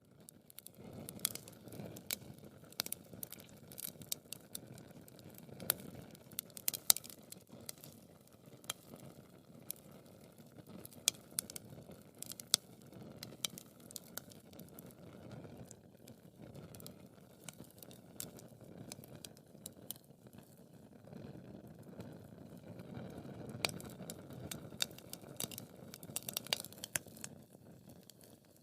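Wood fire crackling in a fireplace: frequent sharp pops and snaps, several a second, over a soft low rustle of burning logs.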